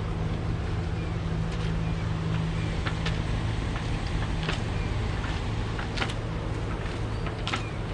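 A catamaran's engine running steadily under way at low speed, a low even hum, with wind noise on the microphone and a few brief sharp ticks.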